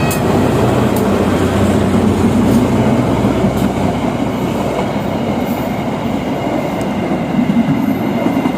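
Train crossing a bridge: the wheels and cars pass with a loud, steady, low rumble, and a faint thin high tone comes in about halfway through.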